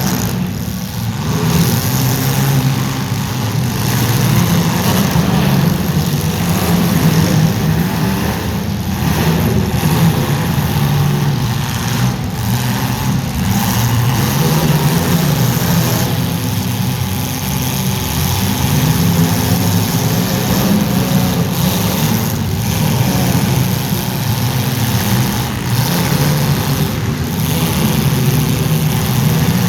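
Engines of several welded compact demolition-derby cars running and revving in a steady, wavering drone, with a few brief sharp knocks.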